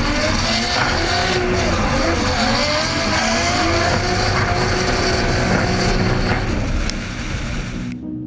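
Drift car engine running at high revs, its pitch wavering up and down with the throttle over a steady hiss of tyre noise. It cuts off abruptly near the end.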